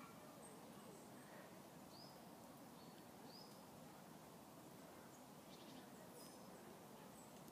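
Near silence with a few faint, short, high bird chirps scattered through it, over a soft steady outdoor hiss.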